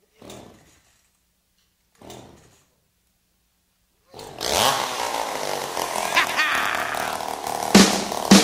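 Two-stroke chainsaw being pull-started: two short pulls on the starter cord, then about four seconds in it catches and runs loudly, revving up.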